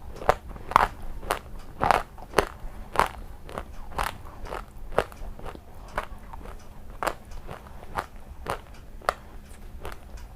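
Close-up crunchy biting and chewing of an unroasted "grey butter", a sharp crunch about twice a second, growing a little softer toward the end.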